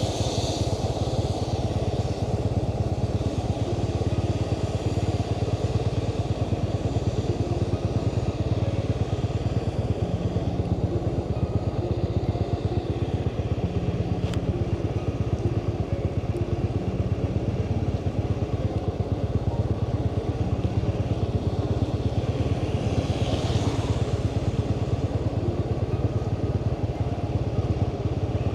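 Motorbike engine running steadily at cruising speed, heard from the bike as it is ridden. A brief hiss swells and fades about twenty-three seconds in.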